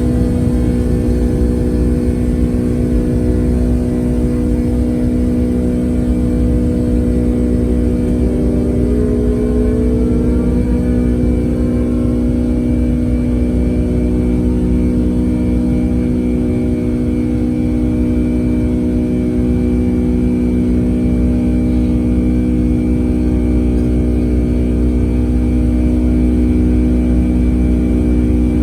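Boeing 757-200's jet engines running steadily: a low rumble under a steady hum of several tones, with one tone gliding up in pitch about nine to twelve seconds in.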